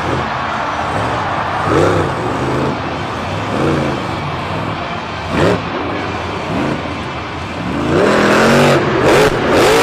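A heavy vehicle's engine revving up and down again and again over a constant rushing noise. The revving is loudest and longest near the end.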